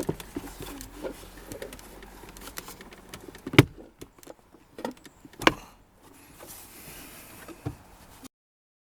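Hands working the plastic glovebox and cabin filter housing parts: scattered light clicks and rustling, with two sharp plastic knocks about three and a half and five and a half seconds in. The sound cuts off suddenly near the end.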